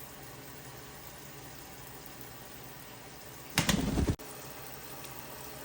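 Water running steadily from a tap or shower. About three and a half seconds in, a loud burst of noise lasting about half a second cuts in over it and stops abruptly.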